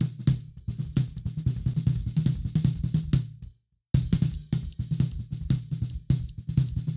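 Recorded drum kit played back during mixing: a dense groove of kick, snare, hi-hat and cymbals. Playback stops for a moment a little after halfway, starts again, and cuts off abruptly at the end.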